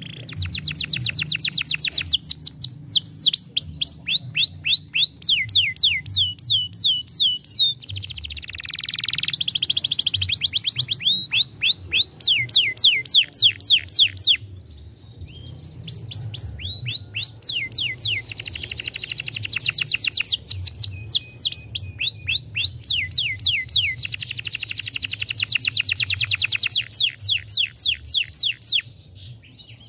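Domestic canary singing a long song of fast trills. Each trill is a rapid run of repeated sweeping notes, and the run changes pattern every second or two. The song breaks off briefly about halfway and again just before the end.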